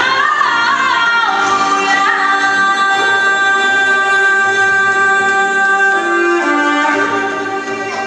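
Chinese pop song with a woman singing: her voice rises near the start, then holds long, drawn-out notes over instrumental accompaniment, which grows a little quieter near the end.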